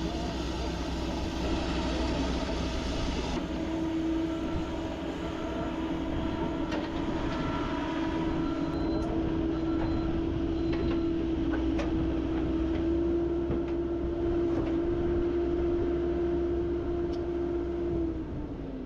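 Cat 308 excavator's diesel engine running, with a steady whine over the engine sound that holds and then falls away near the end.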